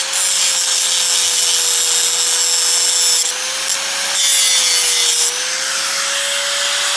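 A machine running steadily, with a loud hiss over a held hum that wavers slightly in pitch. The hiss eases briefly a little after three seconds in and again after five.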